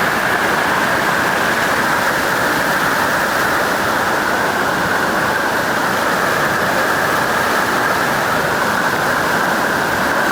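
Swollen creek in flood, its fast-moving water rushing steadily past a bridge.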